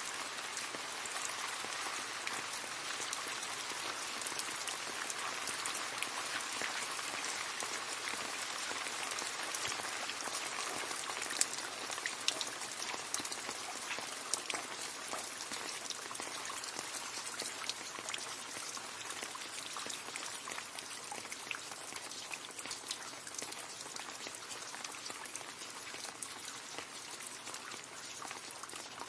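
Steady rain falling into a puddle, a constant hiss with many individual drops splashing, a few sharper drops standing out midway.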